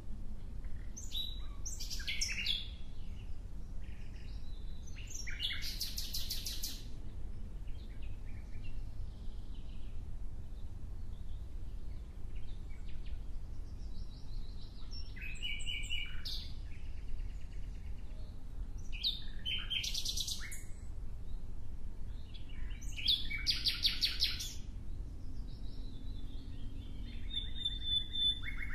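Songbird calling in short phrases of quick chirps and rattling trills, repeated every few seconds, over a steady low rumble.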